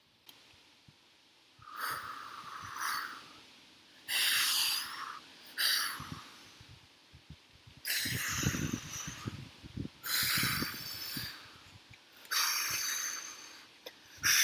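A person breathing heavily in a run of about seven loud, noisy breaths and snorts, each half a second to a second long, roughly every two seconds.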